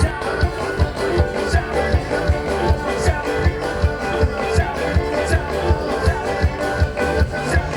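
Live rock band playing an upbeat song, an instrumental stretch with a steady kick drum at about two beats a second.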